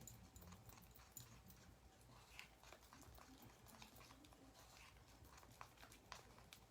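Near silence: faint room tone with a low hum and a few scattered faint ticks.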